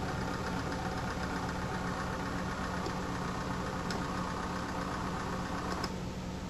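Radeon graphics card cooler fan in a PC running with a steady diesel-like clatter. The clatter stops about six seconds in, leaving a steady whir.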